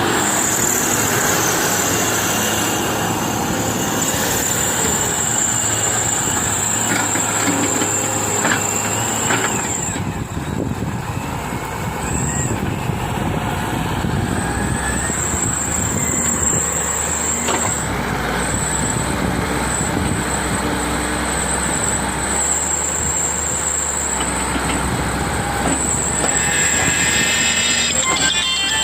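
Wheel excavator working: the diesel engine and hydraulics run steadily under load, with a high thin whine that comes and goes.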